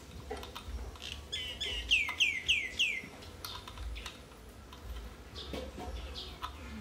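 A bird calling: a quick run of five or six down-slurred chirps about a second in, the loudest sound, with a few more single calls later. Light clicks and taps of a small screwdriver working at an engine control unit's circuit board run underneath.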